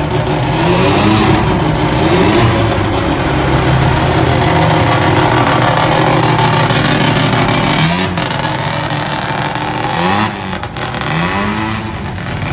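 Modified cars driving off one after another, their engines revving in short rising bursts as each pulls away, with a steady engine hum between the revs.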